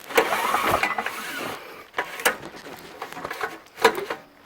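Small engine turned over by its recoil pull-start rope with the spark plug out, to check for spark: a pull lasting about the first second and a half, then scattered clicks and knocks.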